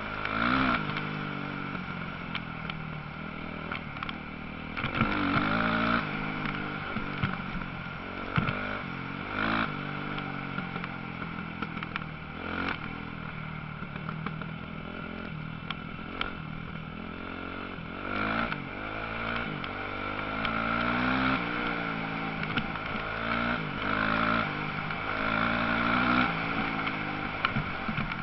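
Motocross bikes racing, their engines revving up and down as they pass, with several machines heard at once.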